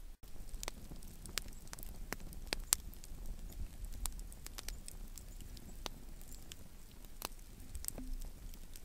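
Wood campfire crackling: scattered sharp pops and snaps at an irregular pace, a few a second, over a faint low rumble.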